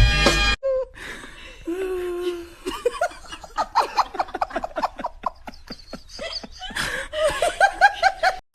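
A person laughing in rapid bursts, about five a second, with a second run of laughter near the end. Music cuts off in the first second.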